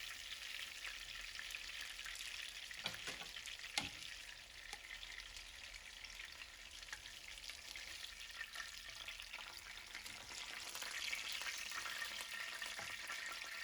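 Chicken breast sizzling as it fries, a steady high hiss, with two sharp knocks a little under three and four seconds in.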